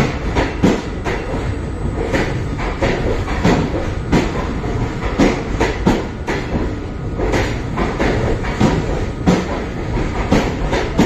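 Train running along the track: a steady low rumble with repeated knocks of the wheels over rail joints.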